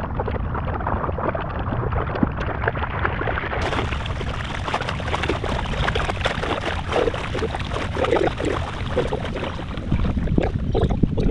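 Choppy lake water splashing and slapping against a kayak in wind-driven waves, with wind rumbling on the microphone.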